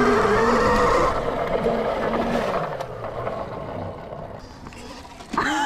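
Rawrr Mantis 72-volt electric dirt bike's motor whining under hard throttle, loud for about a second and then fading away over the next few seconds.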